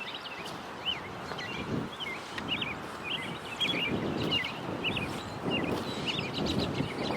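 Small birds chirping continuously, a chorus of many short notes that rise and fall, over an uneven low rumble.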